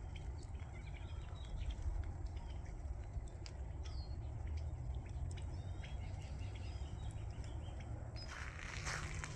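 Small birds chirping in short, high calls over a steady low rumble. Footsteps start up near the end.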